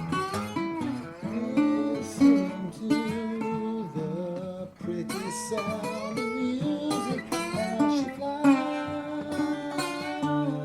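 Two acoustic guitars playing an instrumental passage: a slide acoustic guitar plays a lead line with gliding notes over a plucked nylon-string guitar accompaniment.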